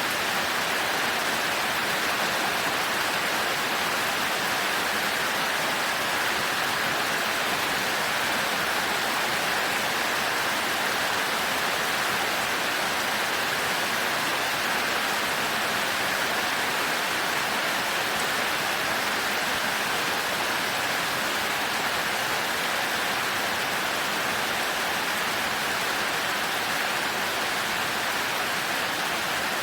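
Heavy rain falling steadily, an even, unbroken hiss of rain with no thunder.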